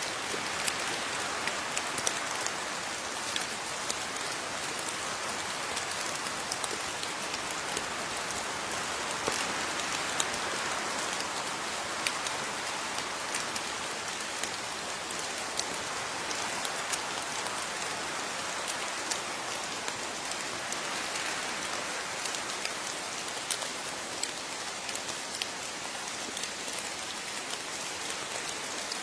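Steady rain falling on a surface, an even hiss with many distinct drop hits.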